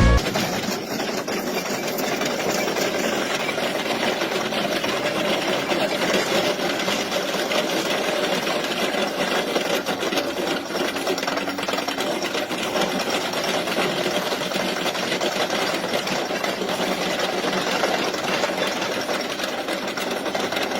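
A machine running with a fast, steady mechanical rattle that keeps an even level throughout.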